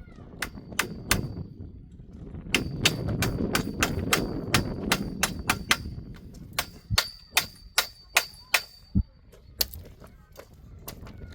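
Repeated hammer blows driving a tent stake, about three a second in several runs, each strike with a short metallic ring. The blows stop about nine seconds in.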